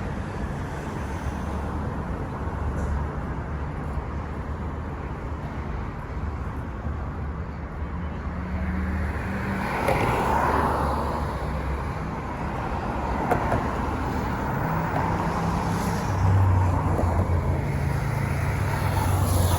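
Street traffic: car engines running and passing, a steady low rumble that swells as a vehicle goes by about halfway through and again near the end.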